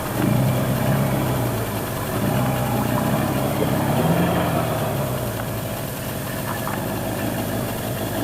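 Motorcycle engine idling, its pitch lifting slightly about four seconds in before settling back.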